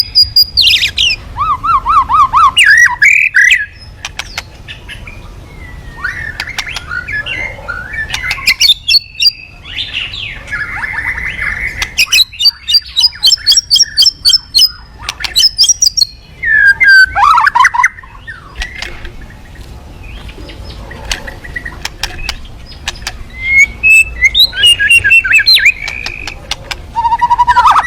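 White-rumped shama (murai batu) singing a loud, varied song in full voice: whistled notes, rising and falling slurs, trills and rapid runs of clicking notes, in phrases broken by short pauses.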